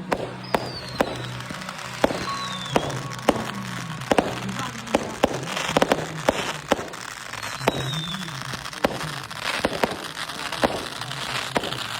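Fireworks popping and banging irregularly, with a few short falling whistles, over music with a steady bass line.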